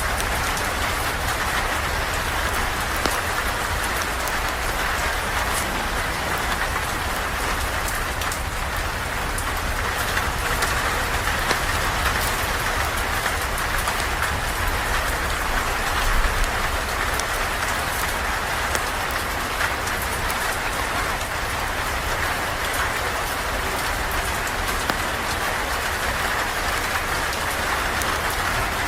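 Steady rain falling, with scattered small clicks and ticks over the even hiss.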